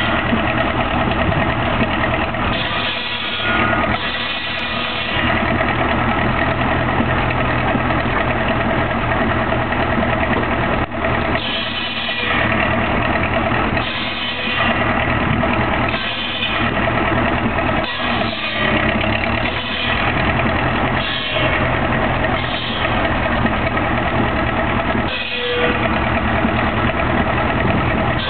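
Steam traction engine running steadily with a low, even beat, and brighter, noisier passages recurring every second or two.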